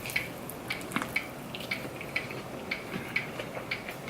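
A person chewing food close to the microphone, with irregular wet mouth clicks and smacks several times a second.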